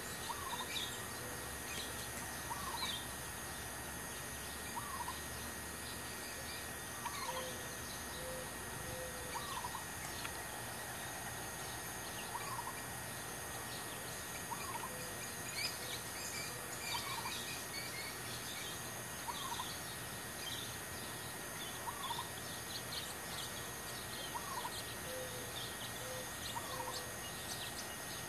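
Birds calling over a steady hiss: one short call repeats about every two seconds, with faint scattered chirps between.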